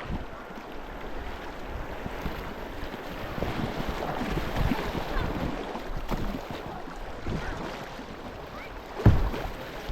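Moving river water around a kayak, with wind buffeting the microphone in low rumbles. A single sharp thump about nine seconds in.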